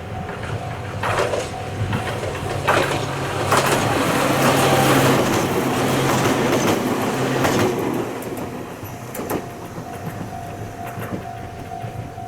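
Omi Railway electric train passing close by, its wheels clicking over rail joints, loudest about four to eight seconds in and then fading away. A thin steady high tone sounds at the start and again near the end.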